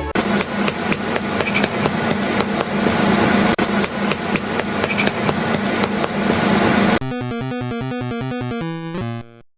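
A rapid, dense clatter of knocks like hammering over a steady low hum for about seven seconds, then a short electronic melody of stepped beeping tones that fades out near the end.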